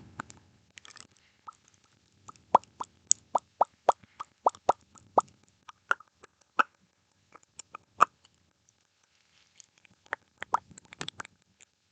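Close-miked ASMR mouth sounds: a string of sharp wet clicks and pops from the lips and tongue, about two a second for a few seconds, then scattered ones and a quick flurry near the end.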